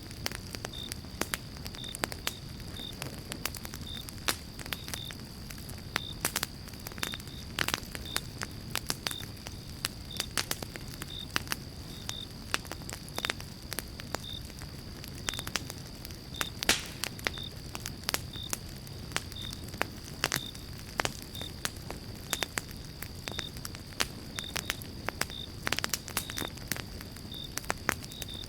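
Pine-log campfire crackling and popping: irregular sharp pops of varying loudness over a steady low rumble of burning. A faint high chirp repeats about every two-thirds of a second, over a thin steady high tone.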